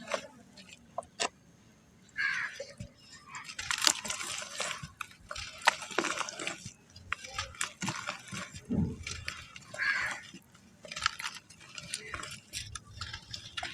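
Clumps of black sand crumbling in water: irregular bursts of crackling and crumbling with short pauses between them.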